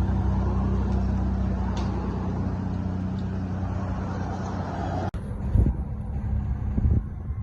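BMW N55 turbocharged inline-six idling steadily through a full straight-pipe exhaust with the muffler deleted, giving a deep, even drone. About five seconds in the sound cuts out briefly, then the idle goes on with a couple of low thumps.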